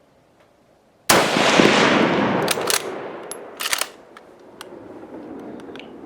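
A single rifle shot from a Mosin-Nagant 91/30 sniper rifle in 7.62×54R, sudden and loud about a second in, its report rolling away over roughly three seconds, followed by a few sharp clicks.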